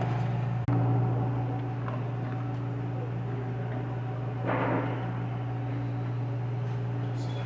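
A steady low hum, with a faint brief rustle about four and a half seconds in.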